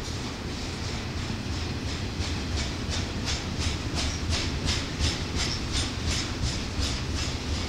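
Double-stack intermodal freight train's container well cars rolling past with a steady low rumble. From about two seconds in, a regular clickety-clack of wheels comes in at about three clicks a second.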